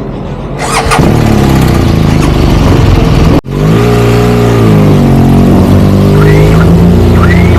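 Motorcycle engine under way, revving as it accelerates, its pitch climbing and falling with the gear changes, over a steady rush of road noise. The sound breaks off for a split second about halfway through.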